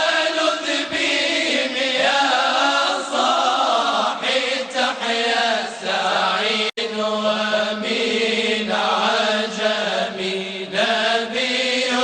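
Moroccan religious praise chanting (madih): voices singing a long, drawn-out melismatic line over a steady held drone note, with a momentary dropout about two-thirds of the way through.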